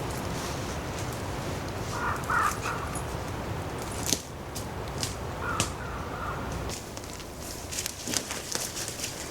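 A crow cawing twice, about two seconds in and again around six seconds, over a steady background hiss, with scattered light clicks and crackles.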